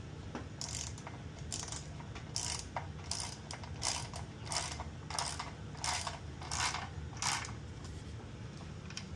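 Ratchet wrench driving bolts, about ten ratcheting strokes at an even pace that stop about seven seconds in, over a steady low hum.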